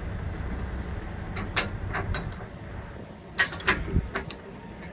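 Low steady rumble of an idling truck engine, with several sharp clicks and knocks from handling the tractor-trailer's electric cable and plug; the loudest knocks come about three and a half to four seconds in as the rumble fades.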